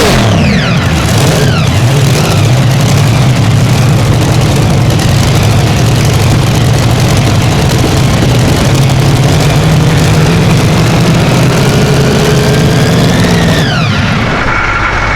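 Pulling vehicle's engine running loud and steady at high revs under load during a pull. Its pitch falls away about fourteen seconds in as it comes off the throttle.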